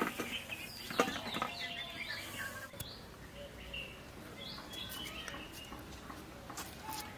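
Small birds chirping now and then, with a brief clatter about a second in.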